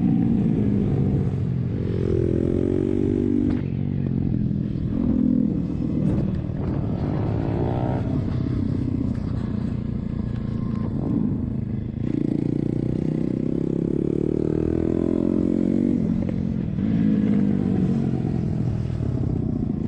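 A pit bike's Suzuki Hayabusa inline-four engine accelerating and backing off around a track. Its pitch climbs through the gears and drops sharply each time the rider shuts off, about four times.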